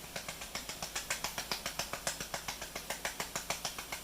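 Cooking utensil clicking and scraping against a frying pan as sauteing vegetables are stirred: rapid, even light clicks, about seven or eight a second.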